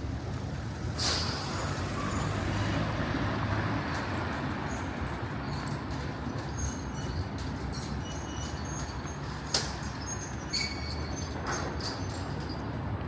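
City street traffic: a steady rumble that swells as a large vehicle passes a second or two in, with a few sharp clicks and knocks later on.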